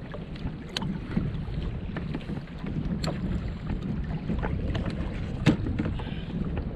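Wind rumbling on the microphone and choppy sea water washing against a plastic kayak hull, with scattered small clicks and one sharper knock about five and a half seconds in.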